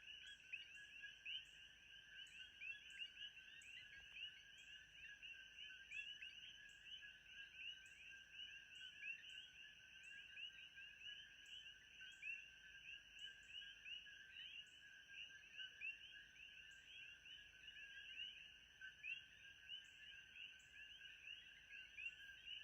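Faint ambience of a dense animal chorus: many quick, overlapping chirping calls without a break, over a thin, steady, high-pitched whine.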